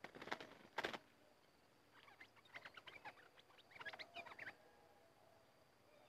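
A bird in a wooden cage clatters against its perch and bars in the first second, with a couple of sharp rattles. Two bursts of quick, scratchy chattering calls follow.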